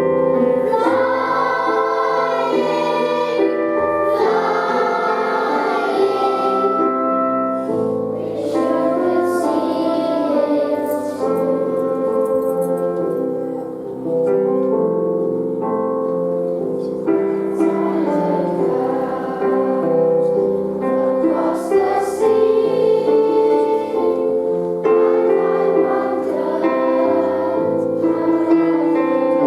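A children's choir singing an original school song in unison phrases over a sustained instrumental backing.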